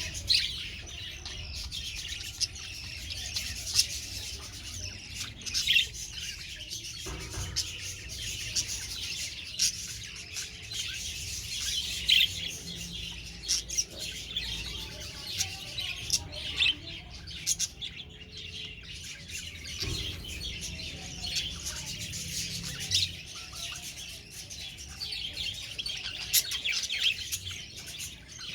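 Budgerigars chirping and chattering without a break, with frequent sharp, louder chirps standing out.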